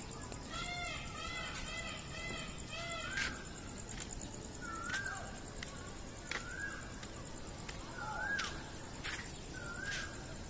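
Birds calling in the trees: short rising-and-falling calls repeat every second or two, with a quick run of four calls about a second in. A thin, steady high-pitched tone runs underneath.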